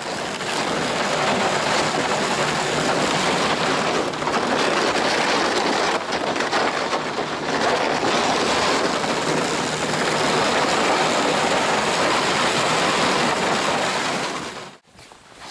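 Loud, steady rushing noise of riding across snow and ice in a motor vehicle, with wind buffeting the microphone. It cuts off abruptly near the end.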